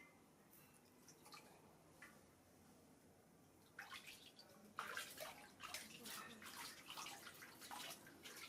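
Water in a bath: a few faint drips, then from about four seconds in a run of splashing and sloshing.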